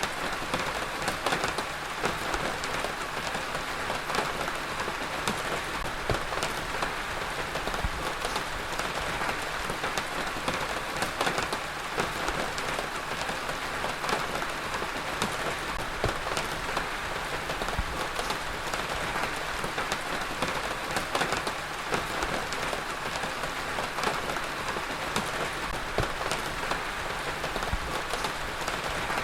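Heavy rain falling steadily, a dense even hiss of rain on surfaces with many individual drop impacts ticking through it.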